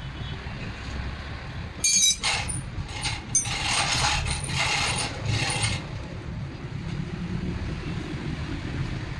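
Metal hand tools working on generator engine parts: a sharp metallic clank about two seconds in, then a few seconds of rapid clicking and scraping like a ratchet wrench, over a steady low rumble.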